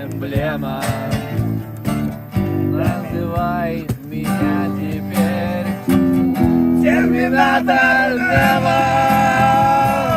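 Song with guitar and a singing voice; about seven seconds in, the voice holds one long note over the chords.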